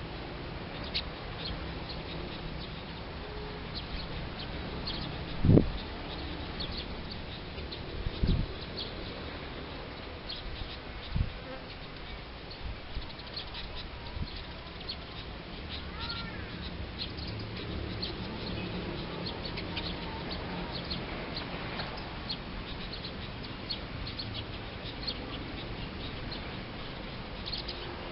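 Field ambience of wild birds and insects: many short, high chirps and ticks scattered throughout, with a faint rising call about sixteen seconds in. Three dull low thumps come about five, eight and eleven seconds in, the first the loudest.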